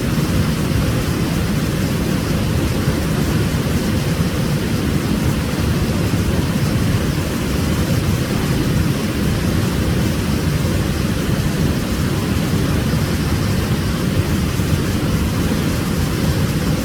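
Waterfall: water pouring and crashing steadily, with a deep, full rumble.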